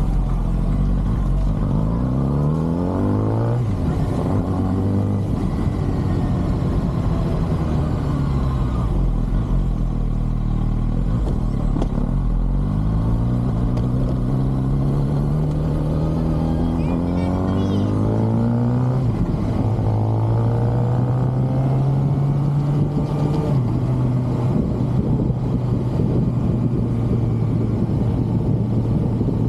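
2023 Kawasaki ZX-6R's stock inline-four engine and exhaust under way. It pulls up through the gears, the revs climbing and then dropping at each upshift: once about three seconds in, and again after a long climb at about 19 and 23 seconds. Near the end it holds steady revs.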